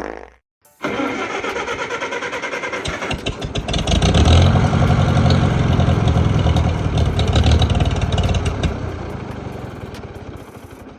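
Old Farmall tractor engine running with a pulsing beat, getting louder a few seconds in, then fading and dying out near the end, a stall the crew suspects is fuel starvation.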